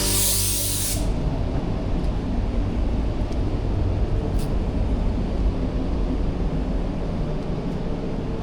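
Loud hiss of air that cuts off about a second in, then a steady low rumble.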